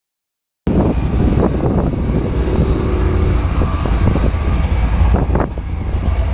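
A car engine running, heard through heavy wind rumble on the microphone. It cuts in suddenly a moment in.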